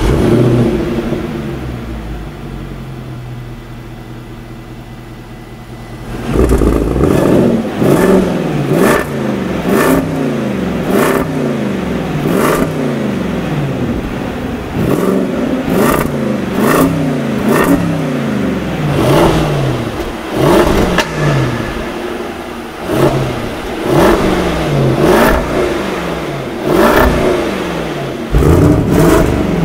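Land Rover Defender 90's 5.0-litre supercharged V8 running through its quad exhaust just after start-up, the fast idle settling lower over the first few seconds. From about six seconds in it is revved in short blips, one after another about once a second, each rising and falling in pitch.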